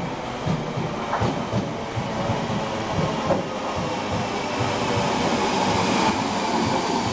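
ScotRail Class 314 electric multiple unit running out of a tunnel and into the station platform, getting louder as it draws alongside. Its wheels click now and then on the rails, and a steady hum builds in the second half.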